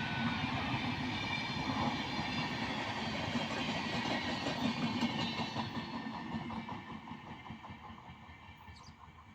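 Indian Railways train running along the track, its wheels sounding on the rails. The sound fades steadily over the last few seconds as the train moves away.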